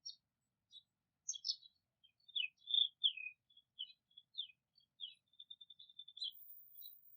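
A songbird singing: a varied run of high chirps and short whistled notes, with a quick trill of evenly spaced notes about three-quarters of the way through.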